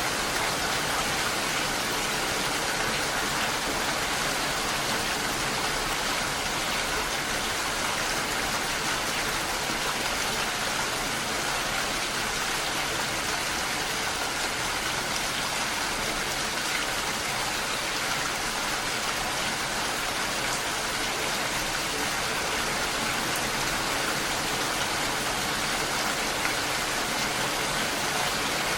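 Steady rain falling, an even dense hiss with no distinct drops or thunder standing out.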